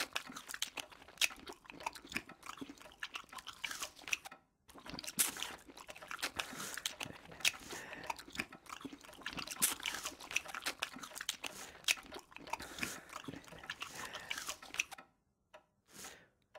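Chewing and eating sounds of people gobbling porridge in an eating contest, a dense run of wet smacks and clicks with a short break about four and a half seconds in, stopping shortly before the end.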